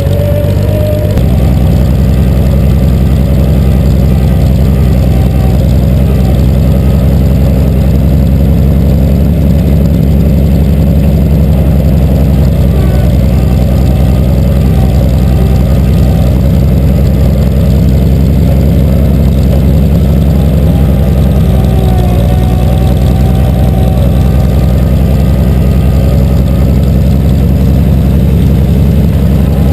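1953 Cockshutt 50 tractor's six-cylinder Buda engine running steadily and loud, its note shifting about a second in and then holding even.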